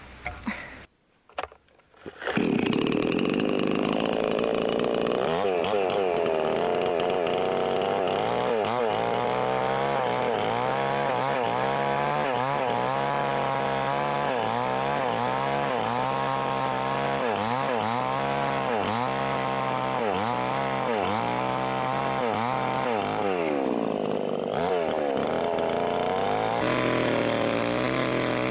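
A small engine starts after a brief quiet and runs loudly, its pitch swelling up and down about once a second.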